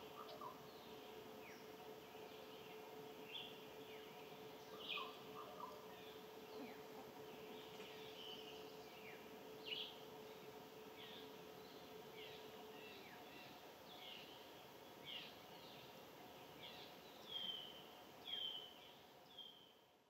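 Faint bird chirps: many short calls, each sweeping downward in pitch, scattered throughout, with a few louder ones near the end. A faint steady hum runs beneath them and stops about two-thirds of the way through.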